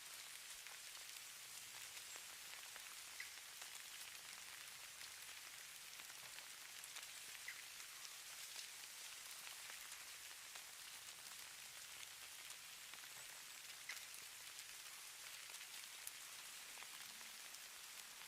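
Falling-snow ambience: a faint, steady high hiss with scattered soft ticks, like light pattering on a surface.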